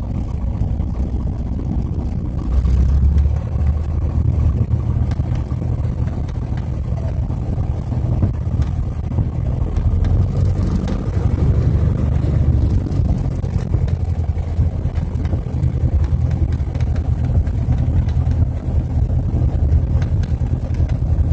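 Aircraft on its landing run, heard as a steady low rumble of engines and rolling noise that swells about two and a half seconds in and stays loud.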